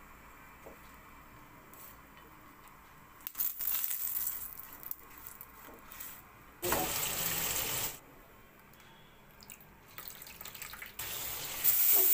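Scattered kitchen sounds: a few short rustling bursts, then a steady rush lasting about a second and a half. Near the end, prawns and onions start sizzling in hot oil in a pan as they are stirred.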